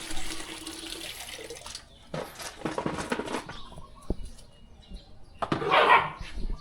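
Water running steadily, cutting off suddenly about two seconds in, then a few short bursts of water noise, the loudest near the end.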